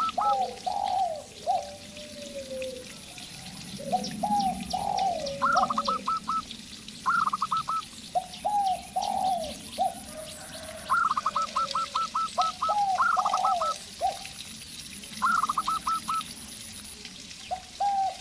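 A zebra dove and a spotted dove calling back and forth. Higher runs of quick, rattling notes alternate and overlap with lower, gliding cooing phrases, repeated several times.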